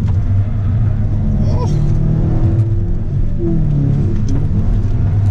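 Car engine running under load, heard from inside the cabin as a loud, steady rumble, its pitch shifting a little as the car climbs. A few short sounds that glide in pitch come through over it.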